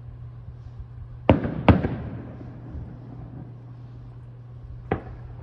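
Aerial fireworks shells bursting: two sharp bangs about half a second apart a little over a second in, each followed by a rumbling echo, then a single fainter bang near the end.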